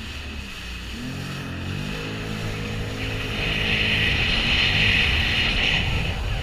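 Sea-Doo jet ski engine running and picking up speed, its drone growing louder, with a strong hiss of rushing water and spray joining about three seconds in.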